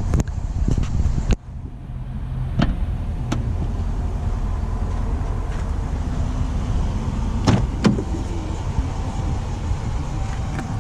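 Steady low rumble from the idling 2021 Dodge Durango R/T, with a few sharp clicks and knocks from the vehicle's trim being handled. A louder noise cuts off abruptly about a second in.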